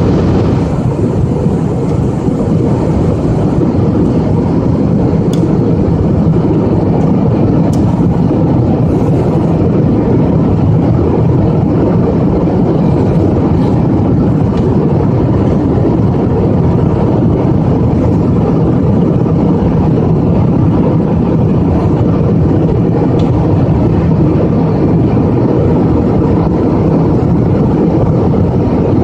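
Steady engine and air noise of a jet airliner in flight, heard inside the passenger cabin: an even, deep rushing sound that doesn't change.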